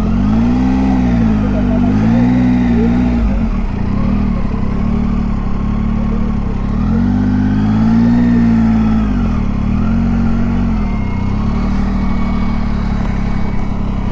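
Triumph Tiger 800's three-cylinder engine under way, its pitch rising and falling several times as the throttle is opened and eased off.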